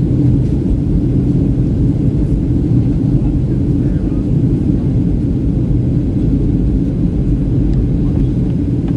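Steady low rumble of a Boeing 737-800 airliner's CFM56 jet engines and airflow, heard from inside the passenger cabin.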